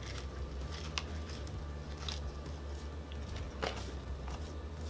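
A man chewing mouthfuls of McDonald's fries, with a few sharp clicks of eating and food handling over a steady low hum.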